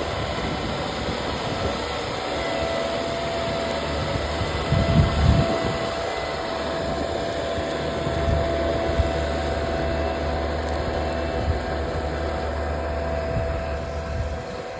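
SwarmFarm robotic tractor's engine running steadily as the machine drives across the paddock spot-spraying, with a thin steady whine over the engine hum. A brief louder rumble comes about five seconds in.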